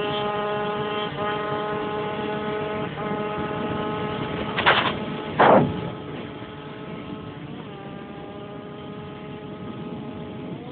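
Racing motorcycle engines running at high revs, holding a steady pitch. About halfway through, two bikes pass close by in quick succession. The engine note then fades and rises again near the end.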